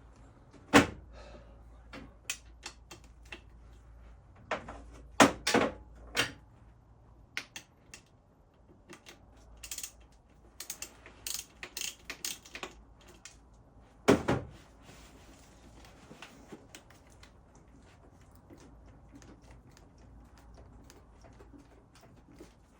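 Irregular clicks and knocks of hand tools and small metal parts being handled while working on the motorcycle's coolant hoses and clips, with louder knocks about a second in, around five seconds in and around fourteen seconds in, then only faint ticks.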